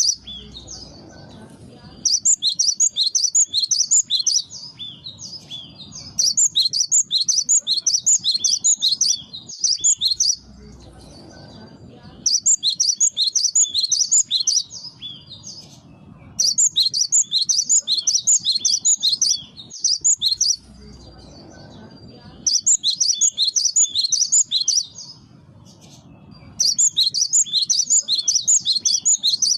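Cinereous tit (gelatik batu) singing: bursts of rapid, high-pitched repeated notes, each burst lasting two to three seconds, coming again and again with short pauses between.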